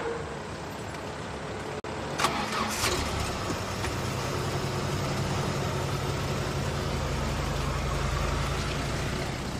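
A taxi's engine starting with a short sharp burst about two seconds in, then running and pulling away. The low engine sound swells as the car passes close by and begins to fade near the end.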